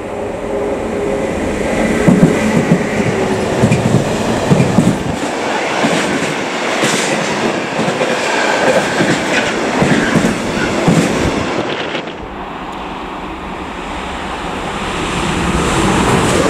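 Electric locomotive-hauled freight train running past close by: a loud rumble of rolling wagons with repeated clatter of wheels over rail joints. About twelve seconds in, the sound cuts abruptly to the quieter, steadily growing hiss and rumble of another electric train, a Stadler FLIRT multiple unit, approaching.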